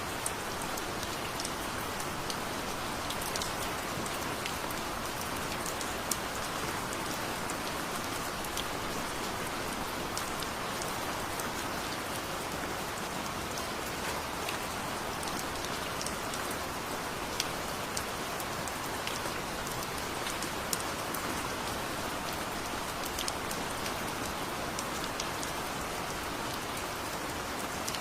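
Steady heavy rain, with sharp clicks of single drops scattered all through it.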